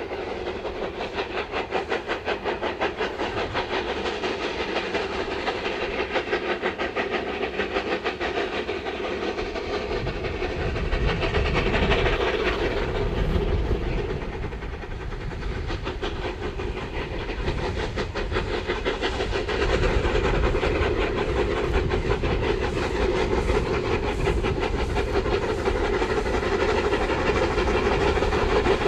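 Narrow-gauge steam locomotive working, with a rapid, even beat of exhaust chuffs over steam hiss. A heavier low rumble joins about a third of the way in.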